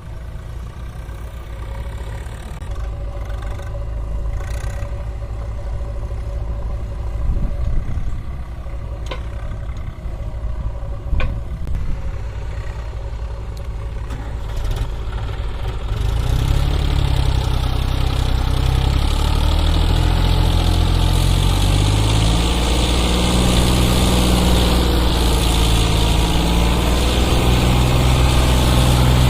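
Tractor diesel engine running, low and steady with a few sharp clicks at first. From about halfway it grows much louder, its pitch rising and falling as the engine works harder.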